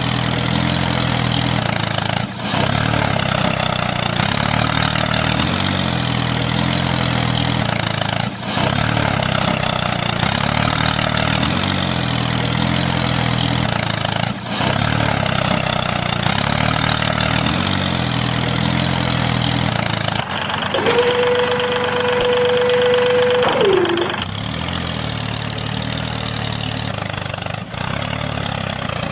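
A tractor engine running steadily, with a brief dip in the sound about every six seconds. A held tone lasts about three seconds, sliding in at its start and out at its end, roughly two-thirds of the way through.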